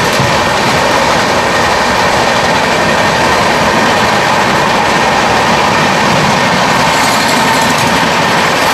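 Express passenger coaches running at about 110 km/h, heard from an open door: a loud, steady rush of wheel-and-rail noise and wind, with a second train running on the next track alongside.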